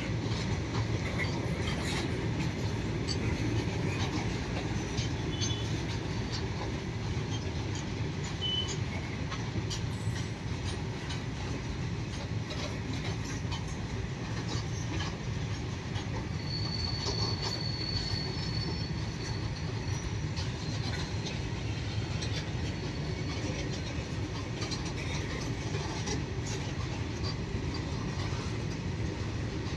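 Freight train wagons rolling past in a steady rumble with scattered wheel clicks. A brief high-pitched wheel squeal comes about seventeen seconds in.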